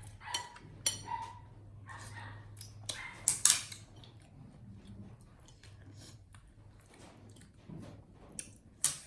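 Brief high squeaks from a baby monkey amid scattered sharp clicks and clatter, like food and small objects being handled; the loudest taps come a little past three seconds in and again near the end.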